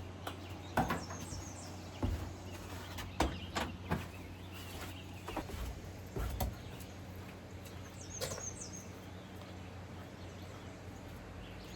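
Scattered clicks and knocks over a steady low hum, with a few faint bird chirps, about a second in and again about eight seconds in.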